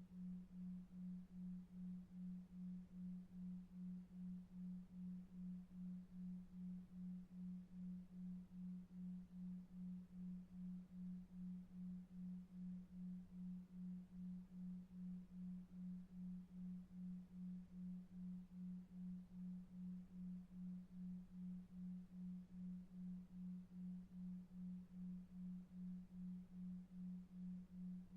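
A low steady hum tone, a delta-wave pulse, throbbing evenly about two and a half times a second over faint low brown noise.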